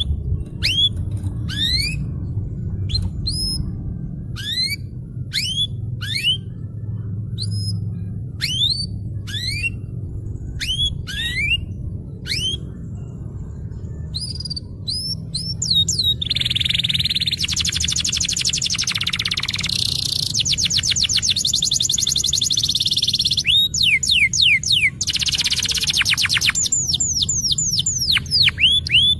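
Domestic canary singing: first a string of separate sweeping whistled notes, then from about halfway a fast rolling trill and rapid runs of repeated notes, the continuous 'ngerol' rolling song. A steady low hum lies underneath.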